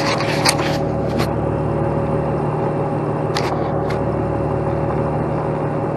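Heavy diesel truck engine idling steadily, with a few short sharp clicks over it.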